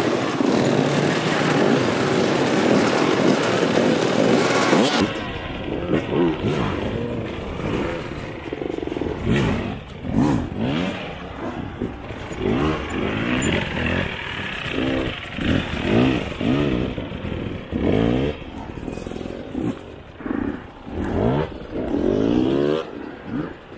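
For about the first five seconds there is a dense, steady noise that cuts off suddenly. After that, a dirt bike engine is revved in repeated short throttle bursts, its pitch rising and falling with each blip, as the rider uses the throttle to lift the front wheel into wheelies.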